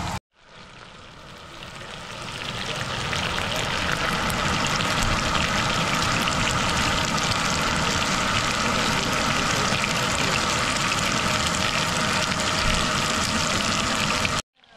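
Food sizzling in a hot frying pan: a steady crackling hiss that builds over the first few seconds, then holds level.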